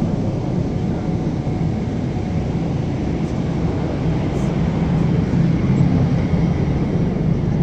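Steady low rumble of airliner cabin noise inside a Boeing 777-300ER in flight, the drone of engines and airflow, swelling slightly a few seconds in.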